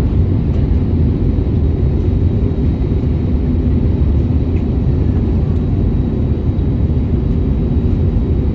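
Airliner cabin noise in flight: a steady, loud low rumble of engines and airflow heard from inside the passenger cabin.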